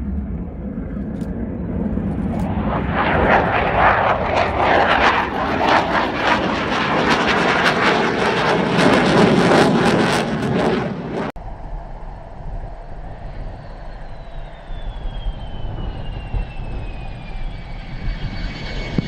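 Fighter jet engine noise: a loud crackling jet roar builds over the first few seconds and cuts off abruptly about eleven seconds in. A quieter jet rumble follows, with a thin whine falling slowly in pitch.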